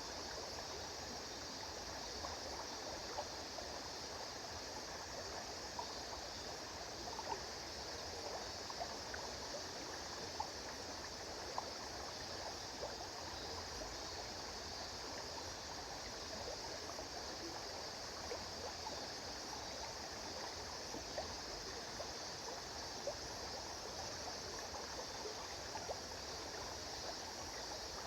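A river or stream flowing steadily, with a continuous rush and many small splashes and trickles throughout.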